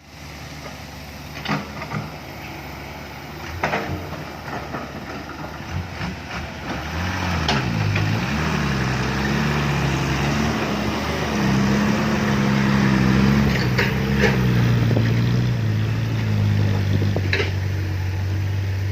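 Heavy diesel engine working, its pitch rising and falling from about seven seconds in and then running more steadily, with several sharp knocks earlier on.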